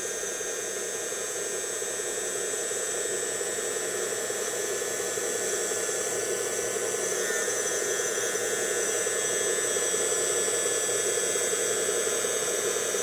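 Brushless-motor hydraulic pump of a 1/14 scale RC dump truck running steadily while the tipper bed slowly lifts. It makes a constant mechanical whine over a band of motor noise, growing a little louder toward the end.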